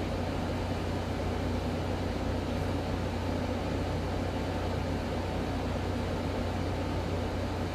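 Steady fan-like hum and hiss with no change in pitch or level.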